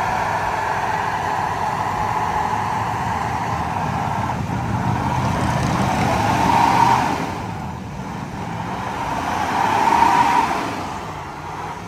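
Motor vehicle running, a steady engine and road sound that swells louder twice, about two-thirds of the way through and again near the end, then eases off each time.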